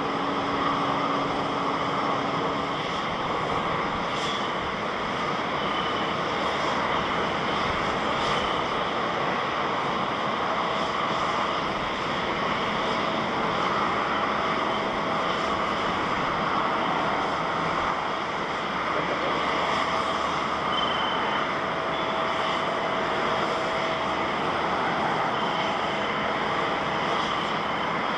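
Boeing 787 airliner's jet engines running: a steady, continuous rush of noise with a faint whine at times.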